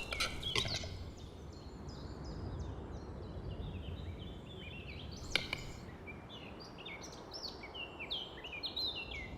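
Small birds chirping and singing in a forest, with many short high notes repeated throughout over a low steady rumble. There is one sharp click about five seconds in.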